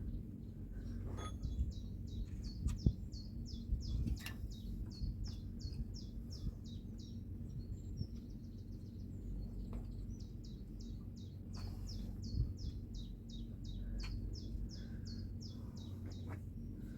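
A songbird singing a long series of quick, repeated, down-slurred high notes, about three a second, in two runs with a short buzzy trill between them. A few sharp knocks and a steady low rumble sit underneath.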